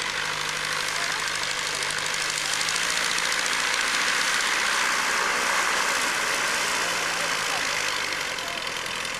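Piston aircraft engine running steadily under a heavy rush of air noise, growing a little louder through the middle and easing near the end.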